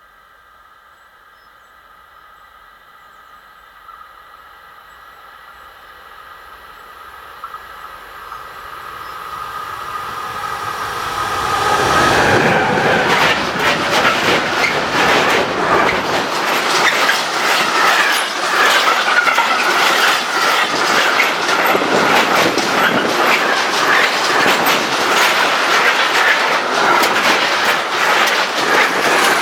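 A train approaching, its rails giving a steady singing tone as it grows louder over about twelve seconds, then passing close by with a loud, continuous clatter of wheels over the track.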